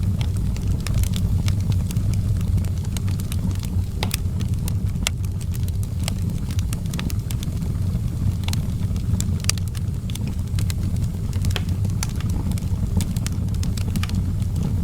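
Outdoor fireplace fire crackling, with frequent sharp pops at irregular moments over a steady low rumble.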